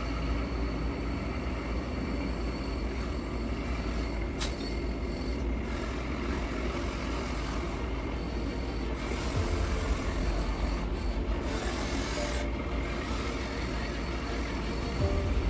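Hydraulic pump system of an RC Lesu LT5 track skid loader running steadily with a faint high whine. About nine seconds in, a hissier stretch lasts a few seconds as the hydraulics work the loader.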